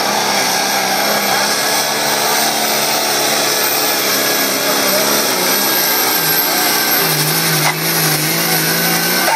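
A pulling tractor's engine running hard under load, loud and steady, its pitch dropping a step about seven seconds in.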